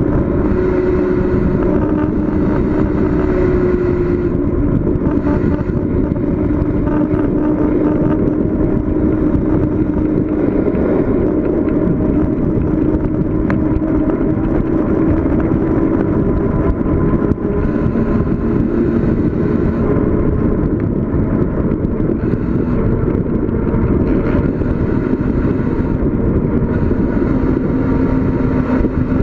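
Steady rushing road and wind noise of a bicycle ride downhill, with a low hum that drifts slowly in pitch.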